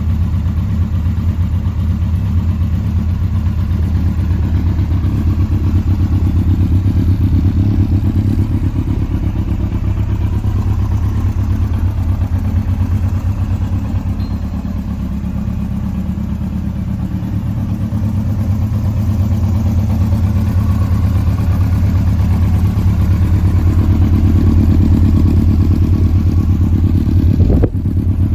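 2000 Yamaha YZF-R1's 998 cc inline-four engine idling steadily, dipping slightly in the middle. There is a brief break in the sound near the end.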